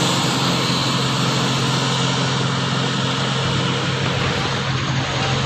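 Heavy truck's diesel engine running steadily at a constant low note, with no revving.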